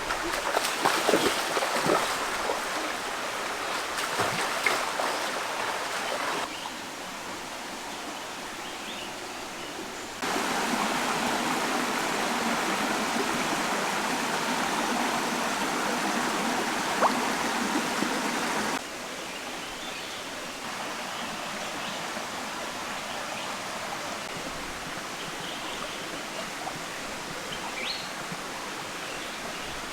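Flowing stream water, a steady rushing that abruptly gets louder or quieter several times. A few sharp knocks in the first few seconds.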